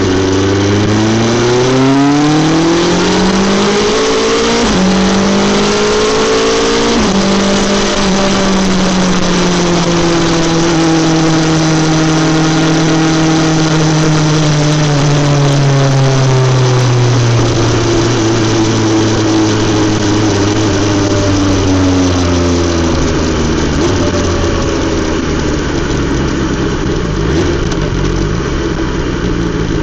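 BMW S 1000 XR's inline-four through an Akrapovic exhaust, accelerating with engine speed climbing through two quick upshifts in the first seven seconds. Then the revs fall slowly as the bike slows, settling into a steady low note from about two-thirds of the way in.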